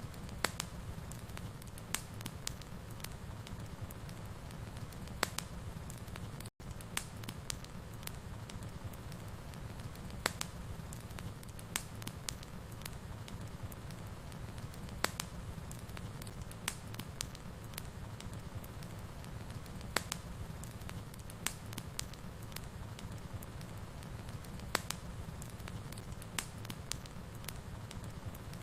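Wood fire crackling: irregular sharp pops and snaps over a steady low rumble of burning. The sound cuts out for an instant about six and a half seconds in.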